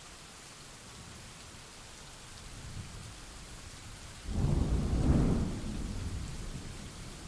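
Steady rain falling during a thunderstorm, with a faint low rumble a little before halfway, then a loud thunderclap just past halfway that rolls and fades away over the last two seconds.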